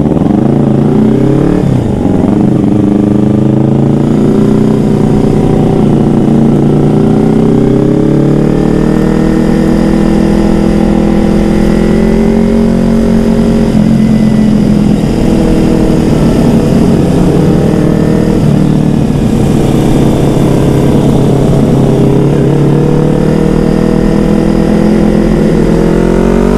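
Yamaha R25's 250 cc parallel-twin engine running hard on the road through an aftermarket DX Generation Racing undertail dual-silencer exhaust with no dB killer fitted. The engine pitch falls at first, then climbs and holds, and rises again near the end.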